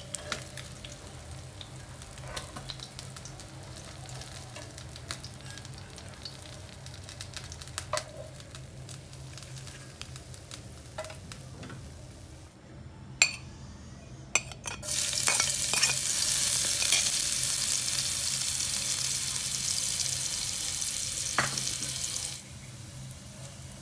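Chopped garlic sizzling loudly in hot oil in a wok, an even hiss that starts about two-thirds of the way through and cuts off abruptly near the end. Before it, only faint scattered clicks over a low hum, with a few sharper metal clicks just before the sizzle begins.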